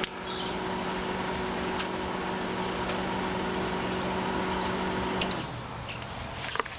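Panasonic microwave oven running with a steady electrical hum, which stops abruptly about five and a half seconds in; a couple of sharp clicks follow near the end.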